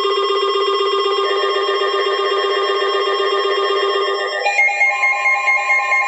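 Electronic alert tone opening a weather warning: a rapid trilling, ringtone-like tone that switches abruptly, about four and a half seconds in, to a steady higher alarm tone.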